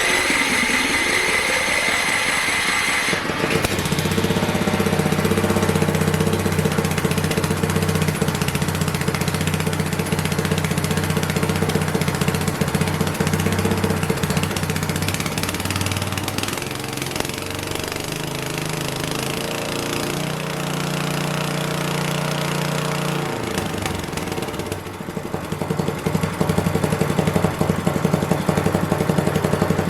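A small engine running steadily, with a low hum whose pitch shifts a few times in the middle, a brief dip about two-thirds of the way through, then a louder, busier stretch to the end.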